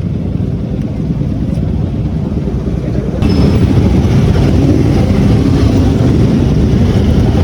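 Motorcycle running on the move: a dense low rumble that gets louder suddenly about three seconds in.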